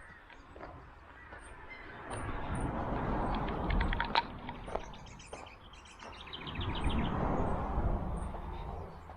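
Small birds chirping and calling, with brief rapid trills, over two swells of rustling noise with a low rumble, one a couple of seconds in and another near the end.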